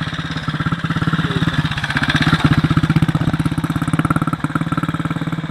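1943 Ariel W/NG motorcycle's 350 cc single-cylinder engine running with an even, pulsing beat as the bike comes closer, loudest about two and a half seconds in, then fading a little as it moves on.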